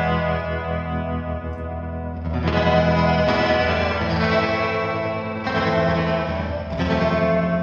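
Electric guitar chords ringing out through the Big Ear Pedals Albie multi-effect pedal, washed in chorus-like modulation and long sustaining ambience. A chord is held, then new chords are struck about two seconds in, around five and a half seconds and again about a second later.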